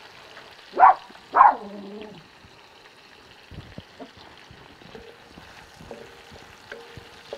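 Diced pork belly and red pepper frying in olive oil in a large pan, a steady low sizzle with faint scattered ticks. About a second in, two short, loud pitched sounds come half a second apart.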